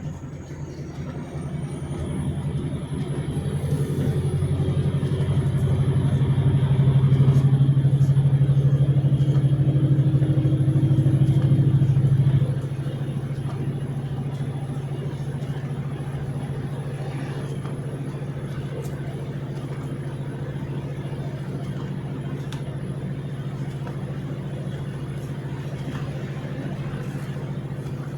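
Car engine running while driving. It grows louder over the first several seconds, then drops suddenly about halfway through and settles to a lower steady hum.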